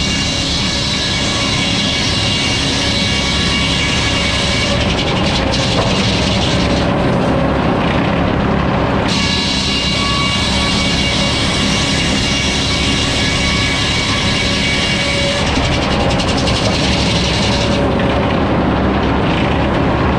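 Sawmill running and sawing a log: a steady machinery drone with a bright, high-pitched cutting sound that drops away briefly about seven seconds in and again near the end, as the saw passes out of the cut.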